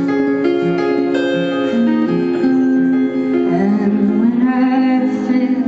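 Acoustic guitar playing an instrumental passage of a folk song, notes changing about every half second. A wavering sung line joins about halfway through.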